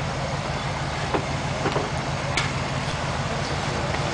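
Truck engine running steadily, with scattered light clicks and knocks.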